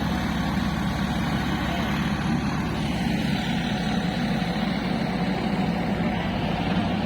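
Diesel engine of a heavy tractor or backhoe loader running steadily and loud, with an even low throb and no change in speed.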